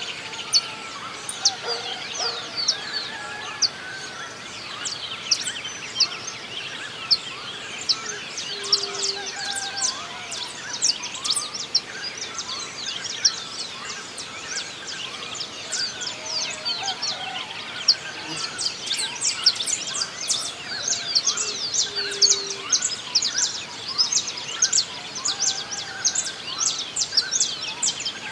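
Dawn chorus of many songbirds: dense, rapid high chirps and quick falling notes, with a few lower whistled notes now and then.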